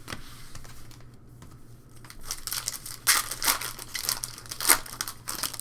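Foil trading-card pack wrapper crinkling and tearing open, in a run of irregular rustles that grows louder about two seconds in.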